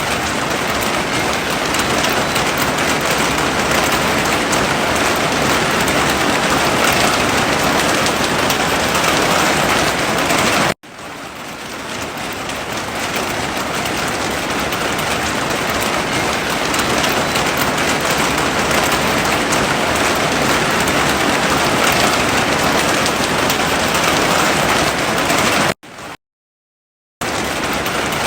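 Heavy rain falling, a loud steady hiss of drops. It cuts out for an instant about 11 seconds in and swells back, then drops to silence for about a second near the end.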